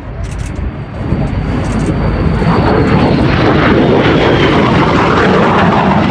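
Jet fighter's engine noise from a MiG-17 flying its display, growing louder over the first couple of seconds as it approaches and then holding loud and steady. A faint high whine falls slightly in pitch as it passes.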